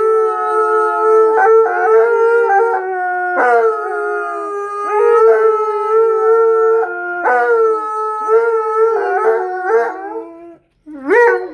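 An Alaskan Malamute and a blue bay shepherd howling together: two long, held howls at slightly different pitches overlap, each note sliding down and starting again every few seconds, until they break off near the end.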